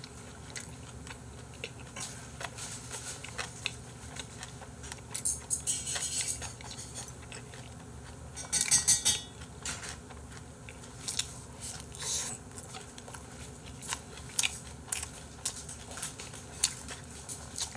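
Close-up mouth sounds of a person eating: chewing, with scattered light clicks of chopsticks. Louder stretches of chewing noise come about five to six seconds in and again about nine seconds in.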